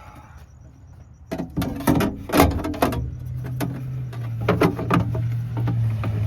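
Metal battery tray being handled and fitted into place: a run of clunks and rattles starting about a second in. A steady low hum joins about halfway through.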